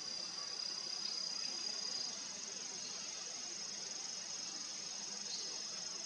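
Steady high-pitched insect trilling, with a second, slightly lower trill stopping about two seconds in.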